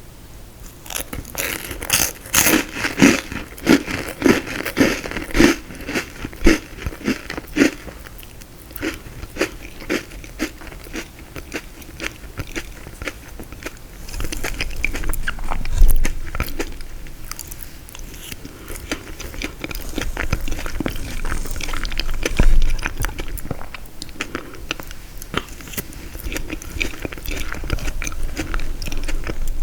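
Close-miked biting and chewing of frozen tiramisu: a quick run of loud, crisp crunches for the first several seconds, then quieter, steadier chewing with a few low thumps.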